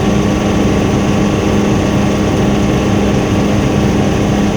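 Helicopter in flight: a loud, steady drone of engine and rotors with a constant low hum running through it.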